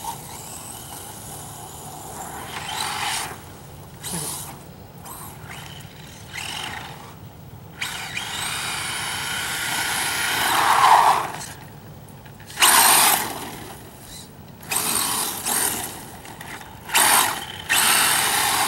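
Electric motor of a 1/10 scale 4WD RC short course truck whining in repeated throttle bursts as it is driven hard, with tyres churning over the yard. The longest run comes about eight seconds in, its whine rising in pitch, followed by several short bursts.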